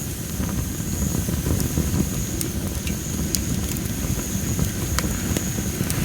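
Campfire of well-dried Japanese spindle (masaki) firewood burning: a low steady rumble with scattered sharp crackles a second or so apart.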